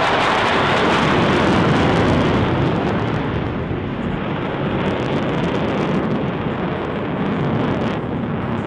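Jet noise from an F-22 Raptor's engines as it flies past, a loud, even rush that eases off a little about three seconds in as the jet draws away.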